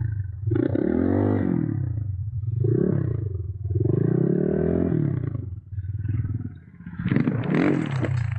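Enduro motorcycle engine revving up and down again and again, its pitch rising and falling with the throttle, then stopping abruptly near the end.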